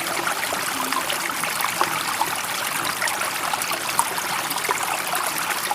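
Running water burbling steadily, a dense patter of small splashes and trickles at an even level with no rise and fall of waves.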